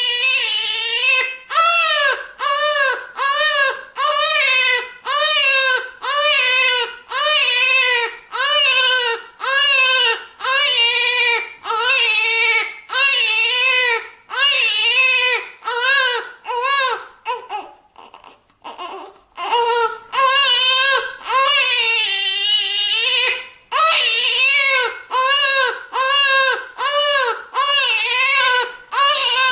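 Newborn baby crying hard in short, rhythmic wails, about one and a half a second. About two-thirds of the way through there is a brief pause for breath, then one longer wail before the quick cries resume.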